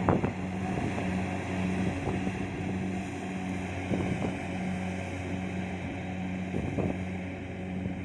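Kubota DC70 Plus combine harvester's engine running steadily at work, a low hum with an even pulsing beat, with a couple of brief knocks partway through.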